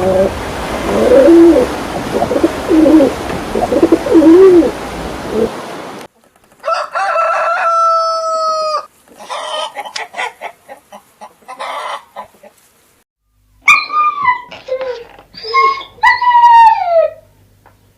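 Farm bird calls from clips that follow one another: low cooing calls over a steady hiss, then a long, drawn-out crow-like call, then a run of short calls that fall in pitch.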